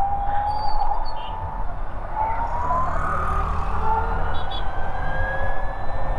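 Ather 450X electric scooter's motor whine, gliding up in pitch as the scooter gains speed, easing off about a second and a half in and then climbing again. Low rumble of wind and road noise runs underneath.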